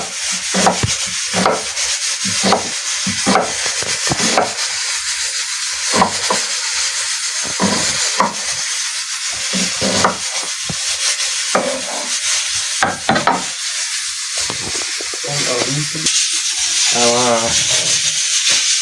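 Hand scraping or rubbing in kitchen food preparation, in repeated short strokes about two a second.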